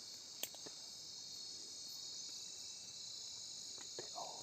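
Steady chorus of crickets chirring at night, with a sharp click about half a second in.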